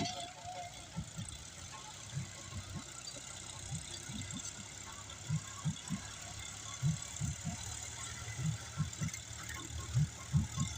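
New Holland 3630 Super Plus tractor's diesel engine running with a steady low hum, with irregular low thumps about once or twice a second.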